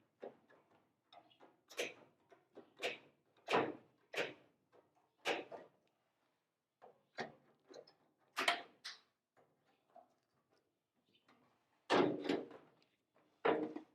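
Irregular knocks and clunks of steel body panels being shifted and fitted into place on a car body, with a few louder bangs among lighter taps and rattles.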